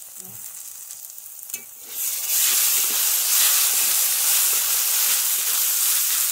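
Onions with turmeric and coriander powder frying in hot oil in a metal kadai, being stirred with a flat metal spatula. The sizzle is faint at first, then turns loud and steady about two seconds in.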